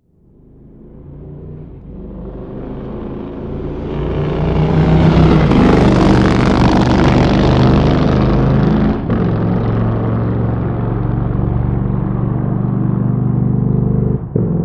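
Motorcycle engine running, rising from nothing to loud over the first five seconds, then running steadily, a little quieter after about nine seconds, with a brief break near the end.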